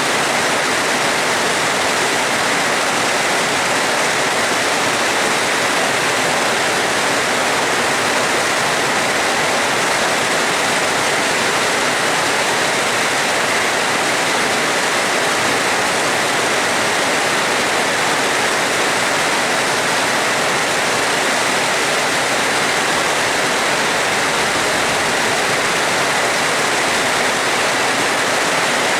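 Rain falling steadily, an even, unbroken rushing hiss.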